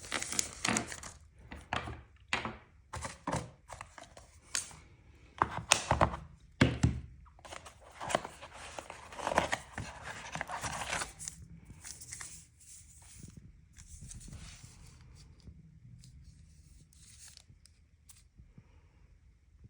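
Unboxing handling noise: cardboard and plastic packaging rustling and tearing, with quick knocks and clicks as parts are taken out and set down. It is busy for about the first twelve seconds, then settles to quieter, sparser handling.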